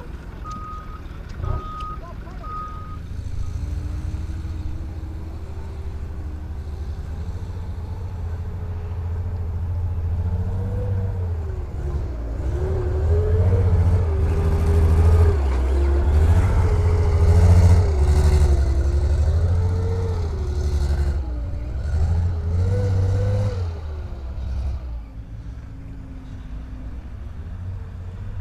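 A heavy vehicle's engine working under load, its revs rising and falling again and again, loudest in the middle and dropping back near the end. Reversing beeps sound in the first few seconds.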